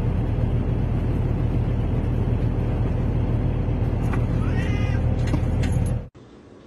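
A steady low rumble with a short, bending cat meow about four and a half seconds in; the rumble cuts off suddenly near the end.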